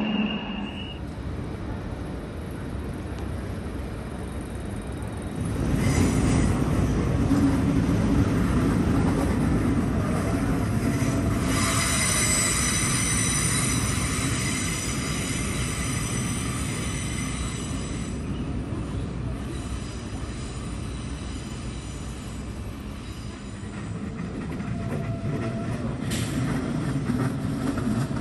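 Red Deutsche Bahn S-Bahn electric multiple-unit train running over the station approach tracks and points with a rumble that grows louder about five seconds in. Its wheels squeal with a high ringing tone for several seconds around the middle, and briefly again near the end.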